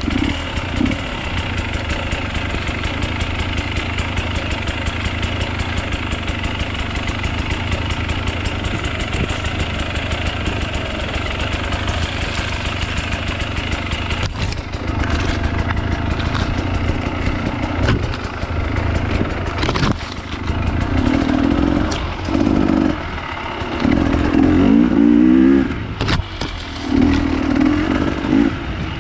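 Off-road enduro motorcycle engine running steadily, then from about halfway revving up and down in repeated throttle bursts with short drops in between.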